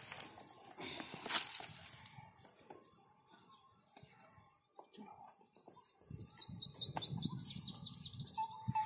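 A bird singing a rapid run of high, repeated chirps, about five a second, loudest over the last three seconds, with fainter chirps before it. A rustle and a sharp knock come about a second in.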